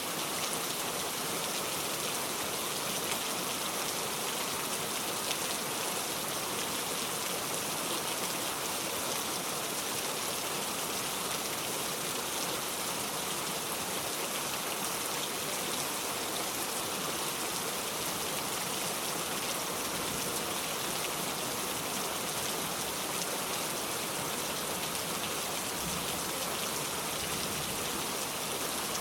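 Steady heavy rain, an even hiss with no breaks and no thunder.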